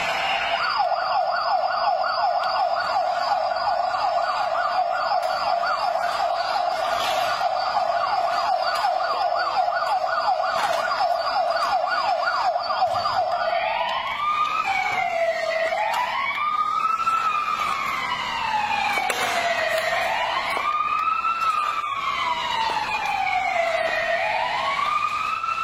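Toy truck's electronic siren. It first plays a fast yelp, about three sweeps a second, then about halfway through switches to a slow wail that rises and falls every few seconds.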